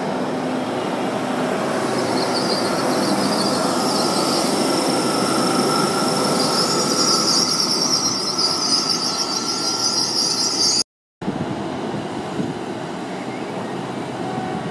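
GWR Class 800 train running slowly along the platform as it brakes, with a high, steady squeal rising in from about two seconds in. After a sudden cut about eleven seconds in, the standing train gives a quieter steady running noise.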